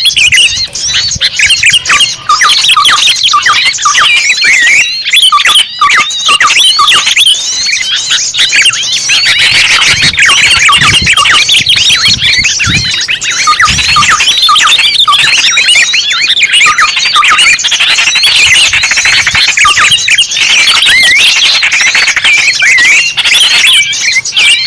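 Bird-lure recording of many small songbirds chirping and twittering at once: a dense, continuous chorus of quick, high chirps that overlap without a break.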